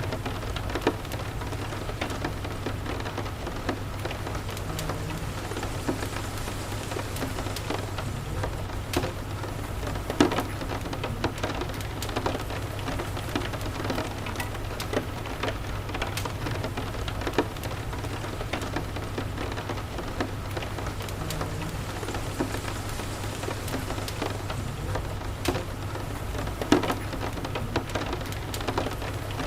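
Steady rain with scattered sharp crackles and pops from a wood fire, over a low steady rumble.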